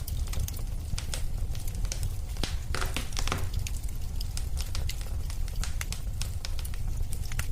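Wood fire burning in a fireplace, crackling and popping over a steady low rumble, with a denser burst of crackles about three seconds in.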